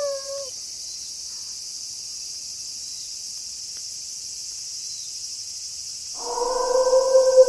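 A wolf's howl tails off with a drop in pitch in the first half second, then crickets chirr steadily in a night chorus. About six seconds in, another long wolf howl begins, holding a steady, slightly falling pitch.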